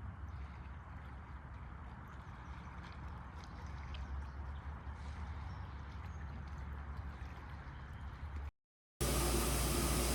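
Lake water washing and gurgling along the shore of Lake Superior, over a steady low rumble. About eight and a half seconds in it cuts out for a moment and gives way to a louder, steady humming sound.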